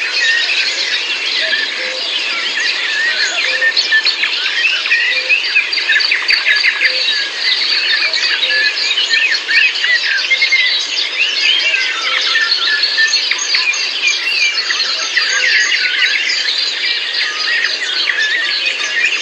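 Many birds singing at once, a dense chorus of short overlapping chirps and trills with no break.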